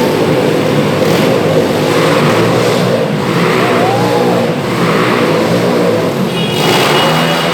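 Four motorcycle engines running and revving together inside a steel globe of death, their overlapping engine notes rising and falling without a break.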